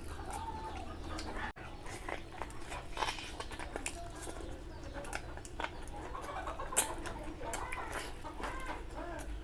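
Close-miked eating sounds: chewing with many short wet mouth clicks and smacks, one louder smack about seven seconds in.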